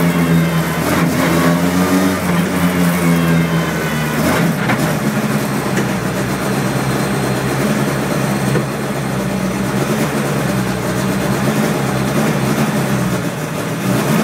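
Skoda rally car engine heard from the passenger seat, its pitch rising and falling through the first few seconds as it is driven, then running at a steadier pitch.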